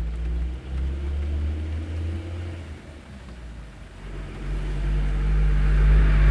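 Truck engines running with a steady low drone; the sound dips about three seconds in, then grows steadily louder toward the end as a truck comes closer.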